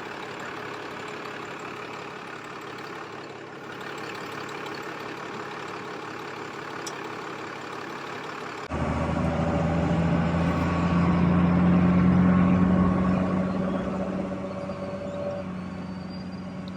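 1996 Cummins 12-valve diesel engine running steadily, just revived after long sitting and running smoothly. About nine seconds in the sound changes abruptly to a louder, deeper drone that swells and then eases off.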